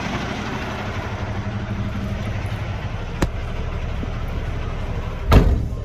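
Semi truck's diesel engine idling steadily, with a sharp click about three seconds in and a loud thump near the end.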